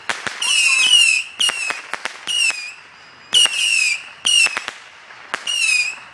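Fireworks going off: a rapid string of short, shrill whistles, each opening with a sharp crack and sliding slightly down in pitch, roughly one a second, with a few lone pops in between.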